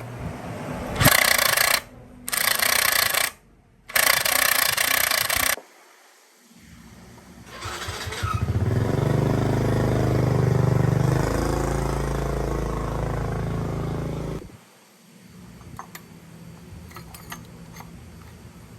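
Three short, loud bursts of hissing air, then a motor runs up, runs steadily for about six seconds and cuts off suddenly.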